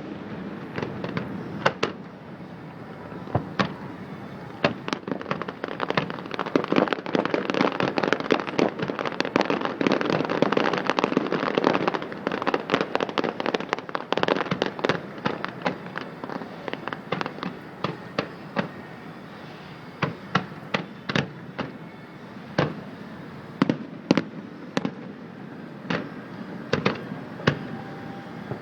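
Fireworks display: shells bursting with a dense run of rapid crackling and bangs through the middle, thinning out to separate, spaced bangs near the end.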